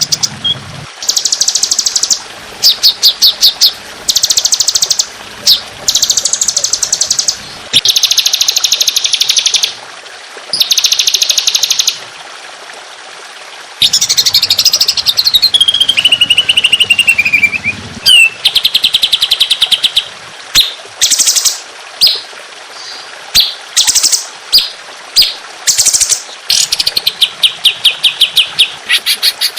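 Songbird song: bursts of very rapid, high repeated notes about one to two seconds long, with short gaps between them. Near the middle comes a long phrase that falls in pitch.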